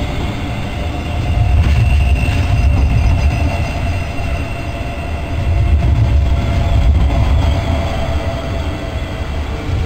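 Double-deck electric regional train rolling slowly past: a steady low rumble from the wheels and carriages, with a steady electric hum over it.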